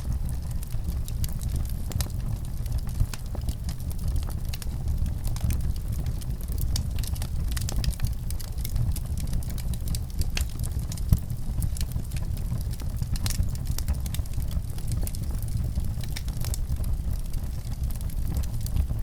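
Wood fire crackling in a fireplace: a steady low rumble of flames with many small sharp pops, and one louder pop about eleven seconds in.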